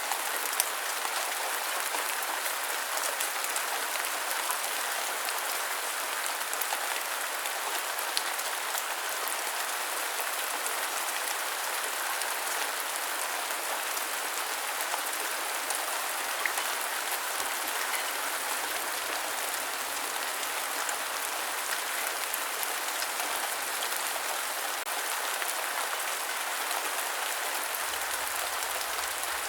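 Steady rain, an even hiss with scattered drop ticks.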